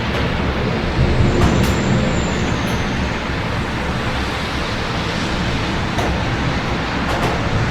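Steady rain with the hiss and hum of city traffic on wet streets. A louder low swell comes about a second in and fades by about two and a half seconds, with a few faint ticks scattered through.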